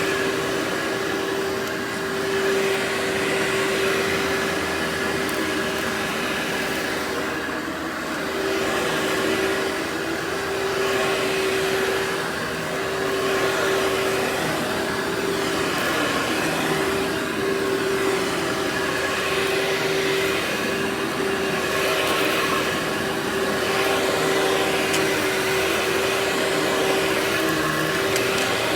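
Workhorse vacuum cleaner running continuously with a steady motor whine, its rush of air swelling and easing every second or two.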